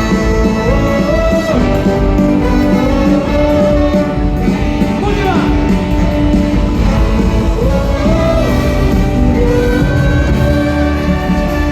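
Live rock band playing, with a melody line that bends and slides in pitch over a steady full-band backing.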